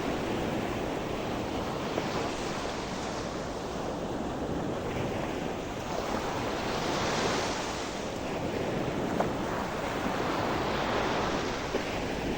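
Sea waves breaking gently on a shore, with a steady wash of surf that swells as waves come in, one building about halfway through and another near the end.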